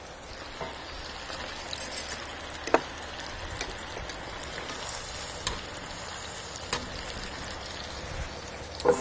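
Zucchini fries deep-frying in peanut oil at about 370 degrees in a cast iron Dutch oven: a steady sizzle with a few sharp clicks scattered through it.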